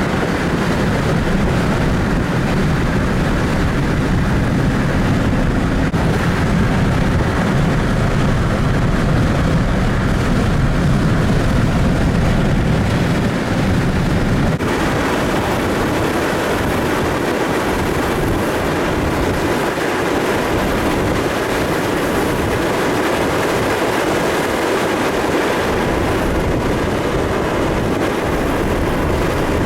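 Strong wind buffeting the microphone: a loud, steady rumbling rush with no pauses. The sound changes abruptly about halfway through, with less rumble afterward.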